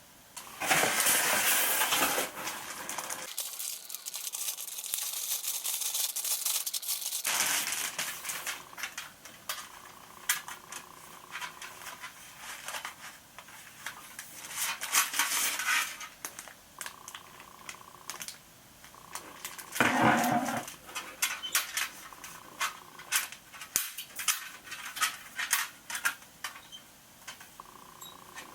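Irregular clinks and clatters of hard objects being handled, with a few louder scraping bursts, the loudest near the start.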